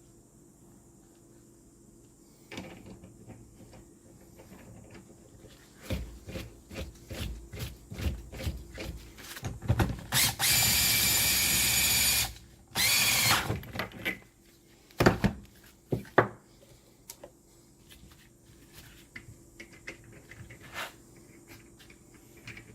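A power tool runs steadily for about two seconds and again briefly just after, tightening a motorcycle shock absorber's parts back together, with knocks and clicks of tools and parts handled around it.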